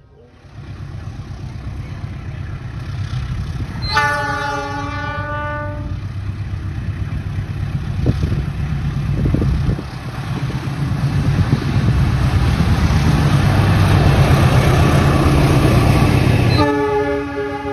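A KAI diesel locomotive hauling a passenger train approaches and passes, its engine and wheels rumbling ever louder as it nears. The horn sounds for about two seconds around four seconds in, and again just before the end.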